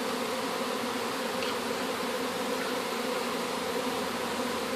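Many honeybees buzzing in a steady drone as they cluster on the front of the hive. They came out as if to swarm and are now going back in.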